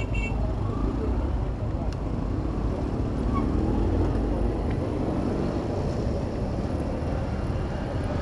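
Steady low wind rumble on a moving bicycle's microphone over city street traffic, with a vehicle passing close by a few seconds in.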